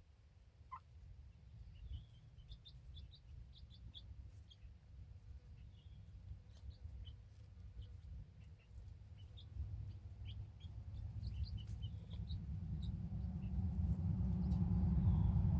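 Young chicks peeping: many short, high chirps scattered throughout. Under them is a low rumble that grows louder over the last few seconds.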